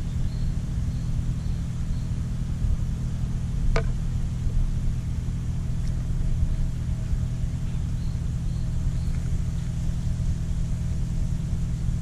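Steady low rumble of an idling vehicle engine, with a single sharp click about four seconds in.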